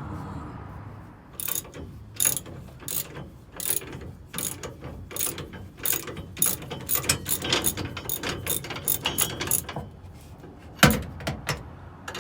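Hand ratchet wrench clicking in quick, uneven strokes as the nuts on the leaf-spring U-bolts of a lifted pickup are worked. Near the end it gives way to a single louder metal knock.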